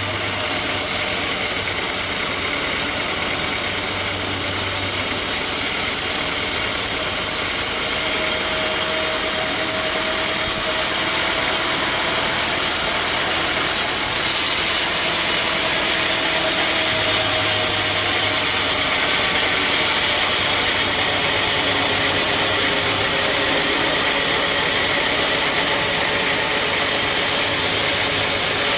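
Sawmill machinery running steadily with a loud engine, growing louder and brighter about halfway through.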